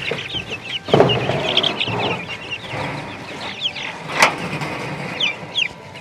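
Flock of three-week-old meat chicks peeping, a busy chorus of short falling cheeps. Knocks and rustling come about a second in, and a sharp knock, the loudest sound, comes about four seconds in.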